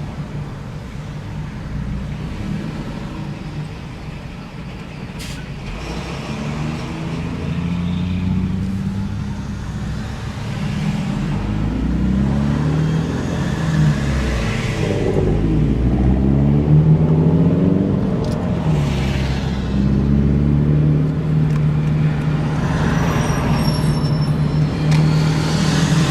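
Car running through an aftermarket cat-back exhaust while driving, heard with the windows open. The exhaust note rises in pitch, drops back and rises again several times as it accelerates through the gears, then holds a steady drone near the end.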